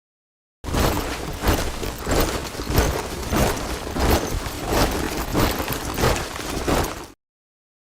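Squad of soldiers marching in step, boots striking the ground together in a steady rhythm of about one and a half steps a second. The sound starts abruptly after a short silence and cuts off just before the end.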